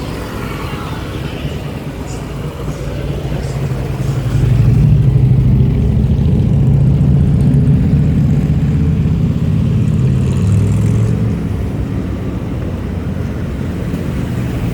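Motor vehicle engine rumble, growing louder about four seconds in and easing off again after about eleven seconds, like traffic passing close by.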